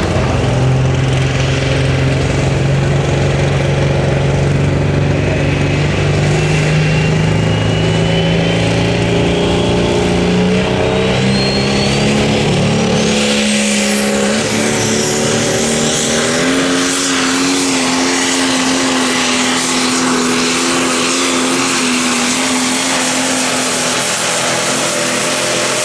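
Light Pro Stock pulling tractor's turbocharged diesel engine running flat out under load, its pitch climbing during the first half and then holding high. A turbocharger whistle rises steadily over that time, topping out very high about 14 seconds in.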